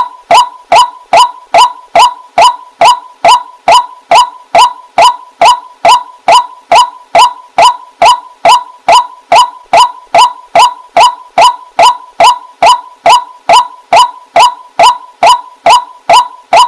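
Waterhen calling: one short, loud note repeated at a steady pace, about two and a half times a second.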